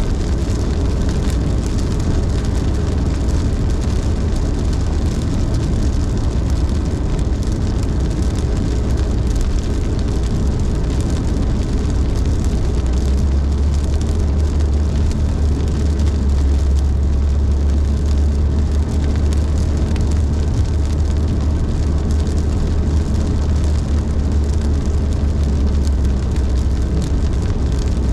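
Steady road noise of a car driving on the highway in heavy rain: a low rumble of tyres and engine under a hiss of rain and spray. The rumble grows heavier about halfway through and eases near the end.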